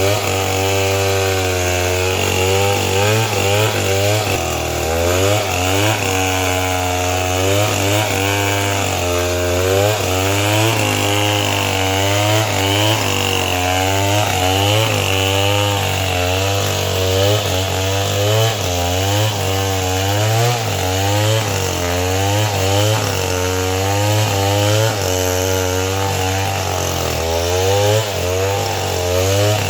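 Chainsaw running under load, cutting timber. Its engine pitch rises and falls over and over as the revs climb and sag in the cut.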